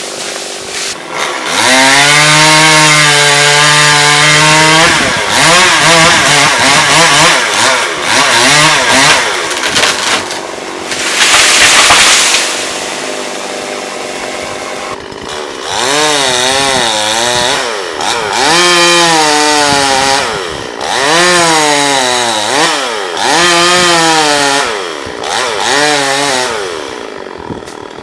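Two-stroke chainsaw running and cutting wood, its engine pitch repeatedly dropping and climbing again as it bogs down in the cut and revs free. A loud rushing burst of noise comes about twelve seconds in.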